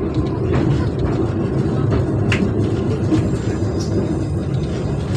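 Steady low rumble of a moving passenger train heard from inside the carriage, with a few sharp clicks from the wheels and running gear.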